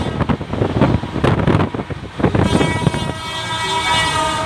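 Passenger train running, with irregular rattling and a steady high-pitched tone throughout. The rattling eases after about three seconds.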